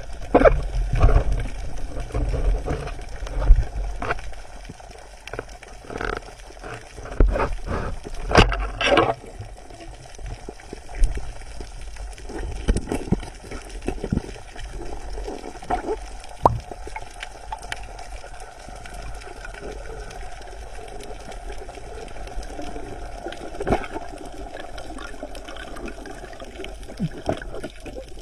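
Water sloshing and gurgling, with irregular splashes and knocks that are loudest and most frequent in the first ten seconds, then settle into a steadier, quieter wash.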